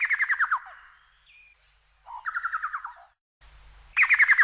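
Bird calls: a run of about eight quick whistled notes falling in pitch, then about two seconds later a second, flatter run of similar notes. The same pair comes again near the end.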